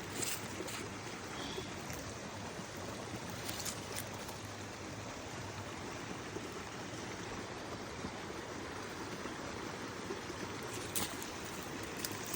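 Steady rushing of a flowing creek, with a few faint clicks.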